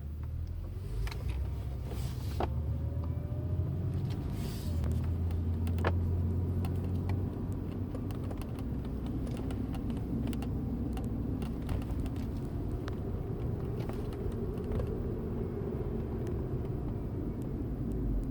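Inside the cabin of a 2007 Acura TL Type S on the move: a steady low rumble from the engine and road, with a faint whine that rises in pitch early on and many small clicks and ticks.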